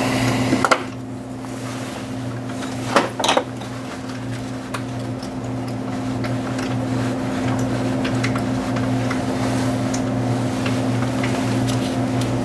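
Hand tools clinking and knocking on metal as a bolt under the alternator's tensioner pulley is worked loose, with a couple of sharper clanks about three seconds in. A steady low hum runs underneath.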